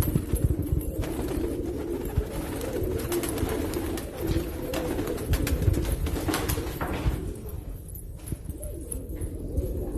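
Domestic pigeons cooing in a continuous, wavering chorus, with scattered light clicks and low bumps.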